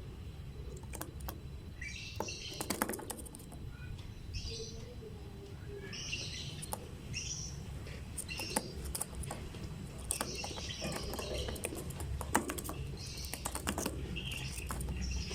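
Lovebirds chirping in short, high, scratchy bursts every second or two, with scattered sharp clicks between them.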